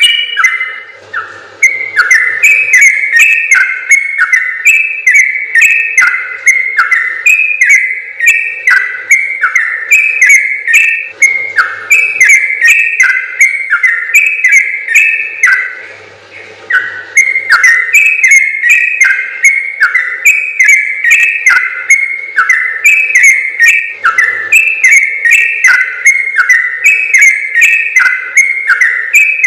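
Yellow-vented bulbul (trucukan) singing a long, rapid run of repeated whistled phrases, pausing briefly twice.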